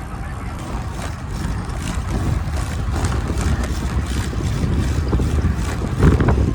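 Wind buffeting the microphone while riding a bicycle: a steady low rumble that grows louder about two seconds in, with its loudest gust about six seconds in.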